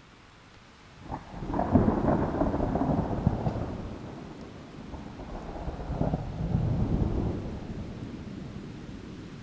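Thunder over steady rain: a sharp crack about a second in opens into a long low rumble, which swells again around six seconds and then slowly rolls away.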